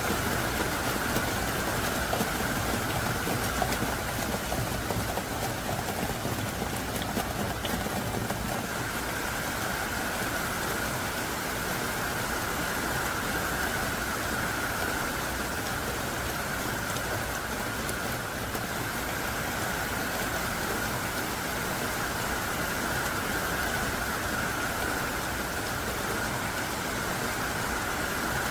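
Heavy rain pouring down steadily, a dense, even hiss with a few sharper drop taps in the first several seconds.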